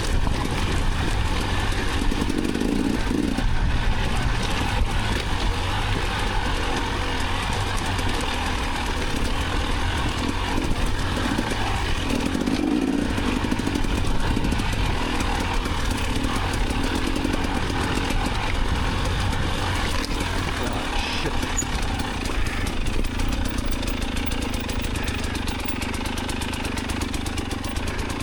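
Enduro dirt bike engine running as the bike is ridden, the note rising and falling a little with the throttle.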